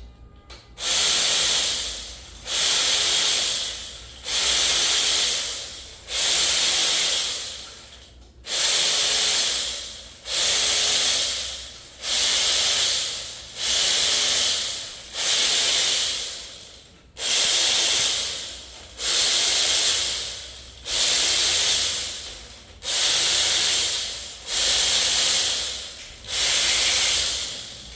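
Compressed air hissing in a steady run of bursts, about one every two seconds, each starting sharply and fading away, as from a pneumatic tool being triggered over and over.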